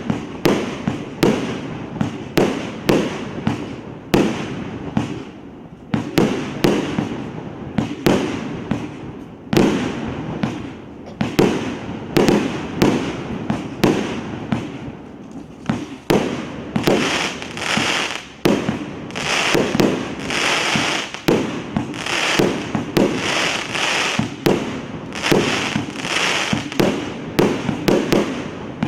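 A large multi-shot fireworks battery firing: a steady run of sharp bangs, about one or two a second. From a little past the middle until near the end, a dense crackling hiss fills the gaps between the bangs.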